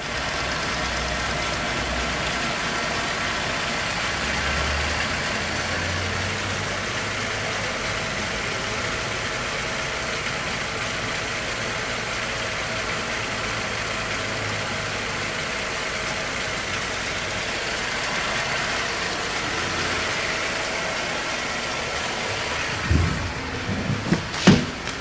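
Holden Commodore V6 engine idling steadily. Near the end come a few sharp thumps and knocks.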